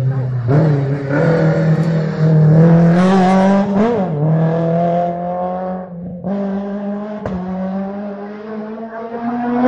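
A car engine run hard at high revs through a slalom of cones, its note holding high, then dipping and climbing again about four seconds in. It drops away briefly near six seconds before pulling up again.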